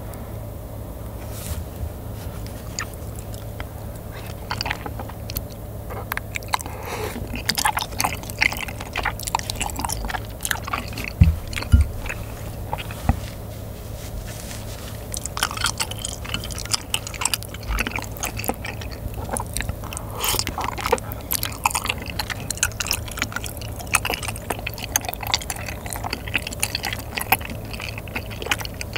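Close-miked chewing of soft, chewy bunmoja and glass noodles in spicy sauce, with many small wet mouth clicks and smacks.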